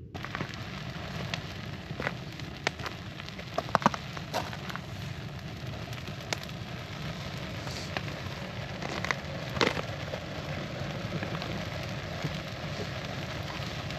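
Campfire crackling: a steady hiss with scattered sharp pops, several clustered about four seconds in and another loud one near the middle.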